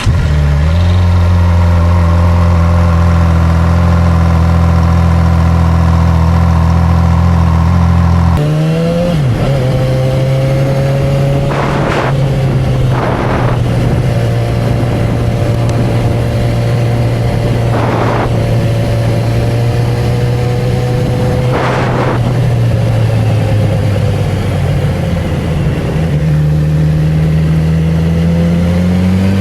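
Honda CB1000R's inline-four engine and exhaust running at a steady pitch, dropping to a lower steady note about eight seconds in. There are a few brief rushes of noise, and the pitch rises near the end as the bike accelerates.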